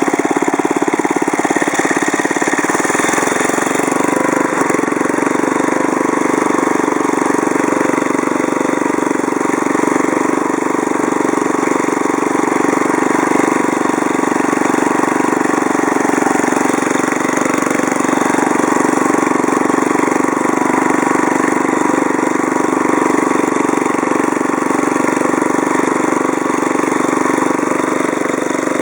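Small single-cylinder Briggs & Stratton engine on a restored Deckson rotary lawnmower running at a steady speed.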